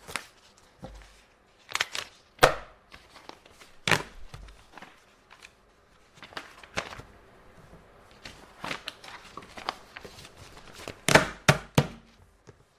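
Irregular taps, knocks and clicks of paper and small objects being handled on an office desk, with a few louder knocks about two and a half seconds in, at four seconds, and a cluster near the end.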